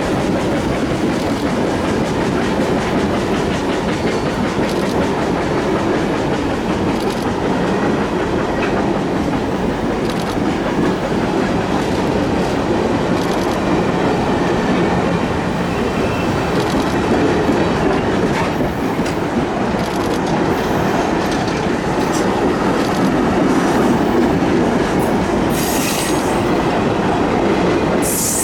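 Reading & Northern steam excursion train's cars rolling past in a steady rumble, their wheels clicking over the rail joints.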